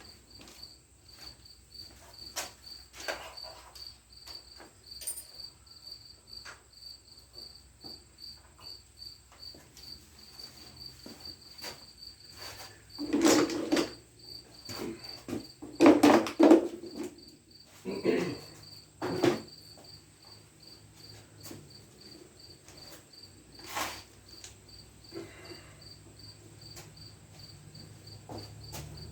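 A cricket chirping in an even, repeating rhythm throughout, over a scatter of knocks and clunks from things being handled; the loudest clunks come a little past the middle.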